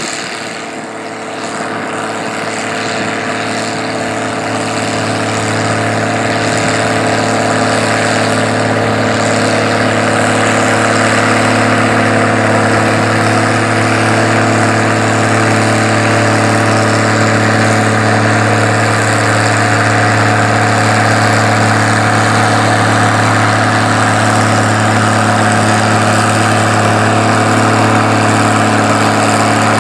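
Antique tractor engine running hard at steady revs under load on a pull, getting louder over the first few seconds and then holding at a constant drone.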